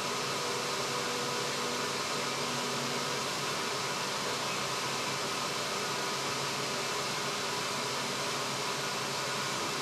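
Steady running noise inside an electric passenger train, an even rush with a faint constant hum.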